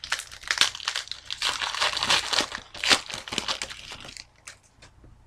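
A plastic card-pack wrapper crinkling and rustling as it is torn and handled, a dense crackle that dies down about four seconds in to a few light ticks.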